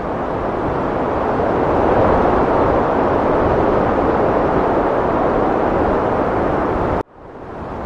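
Heavy wind blowing in a steady rush that swells a little about two seconds in. Just after seven seconds it cuts out abruptly and fades back in, the join of a looped recording.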